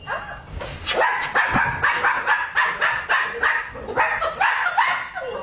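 A dog barking rapidly and repeatedly, about four short barks a second.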